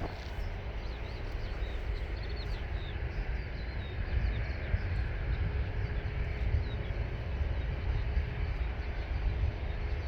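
Airport ambience: a gusting low rumble of wind on the microphone, with a faint steady hum of a distant jet airliner and small birds chirping throughout.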